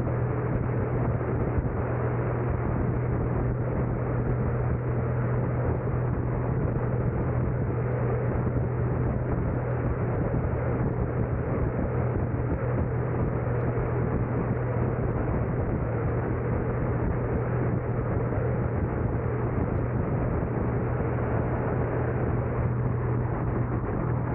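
Steady noise of a car being driven: a constant low hum with road and engine noise, unchanging and with no distinct events.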